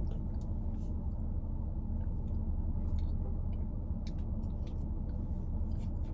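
Vehicle running and driving, heard from inside the cabin as a steady low rumble, with a few light clicks and ticks.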